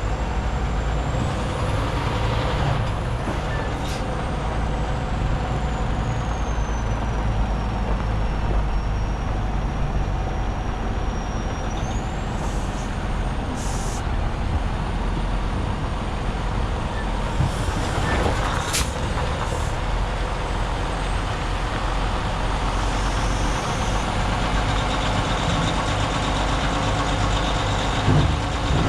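Semi truck running steadily under a hauled excavator, heard from a camera mounted on the excavator on the trailer, with a brief knock about two-thirds of the way in.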